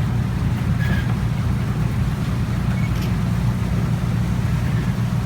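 Passenger riverboat's engine running steadily with a low, even drone.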